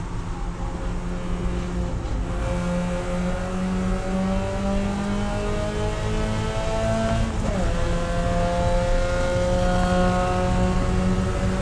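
Spec Miata's four-cylinder engine heard from inside the cockpit, pulling at high revs with its pitch climbing. About seven and a half seconds in, a quick upshift drops the revs, and the pitch climbs again.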